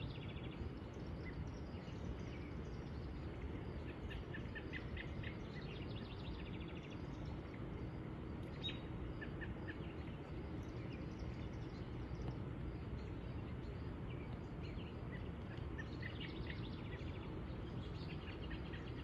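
Outdoor evening ambience: a steady low background rumble with birds chirping in short scattered runs of high notes, busiest a few seconds in and again near the end.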